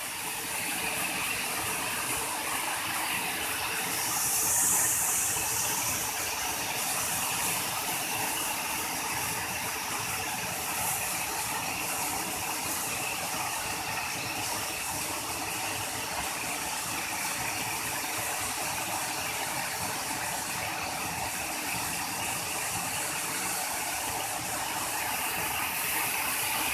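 Steady rush of a waterfall and river, with a brighter hiss about four seconds in.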